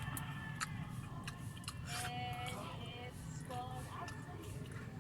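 A few light clicks of cutlery against dishes over a steady low hum, with faint voices and music in the background.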